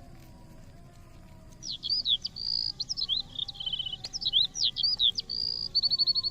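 A songbird singing a fast, varied song of quick up-and-down whistled slurs, held notes and rattling trills, starting about one and a half seconds in.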